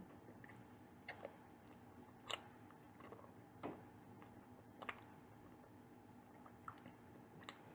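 Faint, quiet chewing of a soft bakery bun or pastry: a handful of small mouth clicks at irregular intervals over a low steady hiss.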